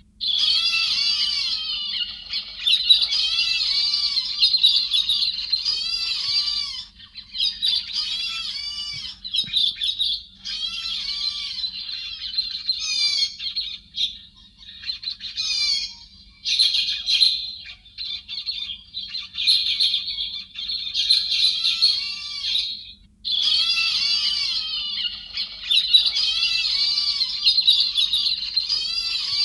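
A flock of héc xoan birds chattering, with many high, overlapping calls running together in long stretches broken by a few short pauses. This is a bird-trapping lure recording.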